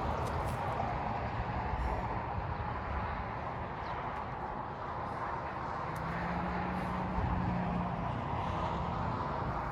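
Strong blizzard wind blowing in a steady rushing roar, with a low steady hum joining in for a few seconds past the middle.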